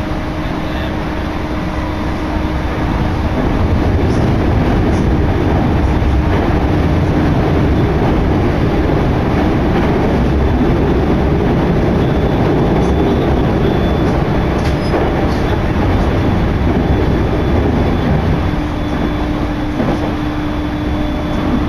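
Commuter electric train running between stations, heard from inside the carriage: a steady rumble of wheels on the rails that grows louder about three seconds in and eases a little near the end, with a faint steady hum underneath.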